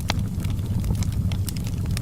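Wood fire burning in a fireplace, with a steady low rumble and scattered sharp crackles and pops at an irregular pace.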